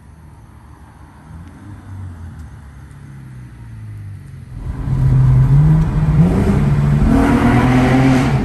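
Car engine heard from inside the cabin, a low hum at first, then getting much louder about four and a half seconds in as the car accelerates, its engine note climbing and dropping back, with road and wind rush building near the end.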